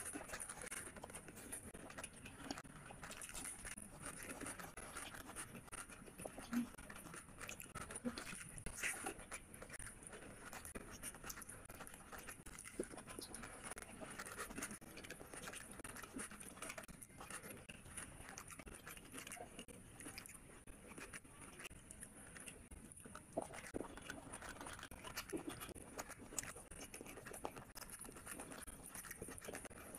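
Close-miked eating: a person chewing and lip-smacking mouthfuls of rice and curry eaten by hand, with many small irregular mouth clicks.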